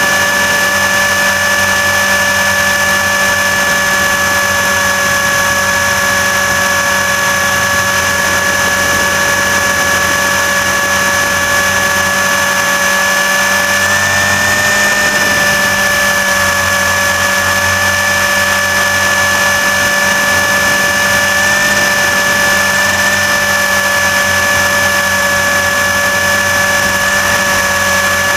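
RC helicopter's motor and rotor heard from on board: a loud, steady, high-pitched whine that rises slightly in pitch about halfway through and then settles back.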